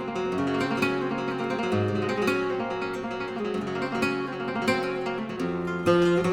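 Background music played on a plucked acoustic guitar, a run of picked notes over a moving bass line.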